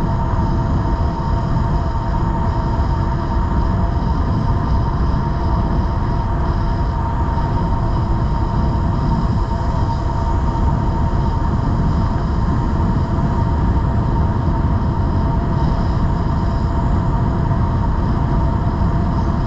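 Steady rush of wind on the microphone of an e-bike cruising at about 21 mph, heaviest in the low end, with a constant whine from the electric drive motor running at a steady speed.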